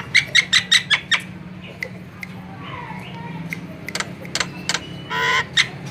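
Javan myna calling: a fast run of about six sharp clicking notes in the first second, fainter whistled notes through the middle, and a harsh squawk near the end.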